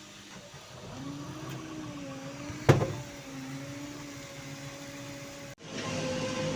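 JCB backhoe loader's diesel engine running with a slightly wavering hum, with one sharp loud knock about two and a half seconds in. The sound drops out for an instant near the end, then the engine comes back louder and steadier.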